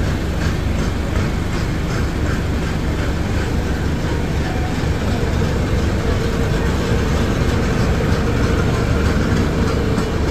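Steady rumble and rattle of a moving electric suburban train, heard from on board, with a light regular clicking over the rails in the first few seconds and a steady hum coming in about halfway.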